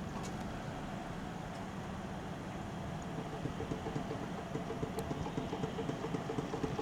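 Tohoku Shinkansen train moving slowly at the station: a steady low rumble, with rhythmic ticking that starts about halfway through and grows a little louder.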